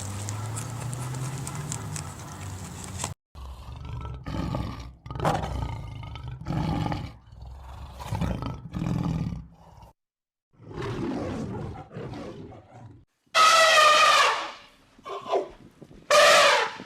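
Large wild animal calls, in the manner of roars: first a run of short calls, a little more than one a second, then two louder, drawn-out calls near the end.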